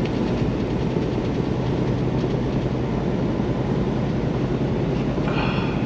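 Steady road and engine drone inside a semi truck's cab while driving, with a constant low hum under an even roar.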